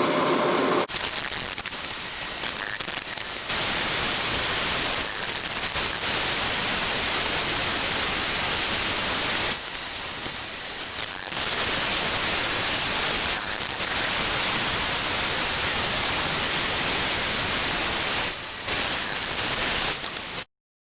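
Loud, steady hissing noise with no clear pitch. It dips and swells a few times and cuts off abruptly just before the end.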